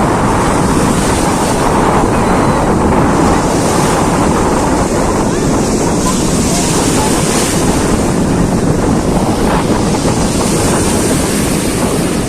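Stormy sea surf: waves breaking and washing in, swelling every few seconds, under heavy wind buffeting the microphone.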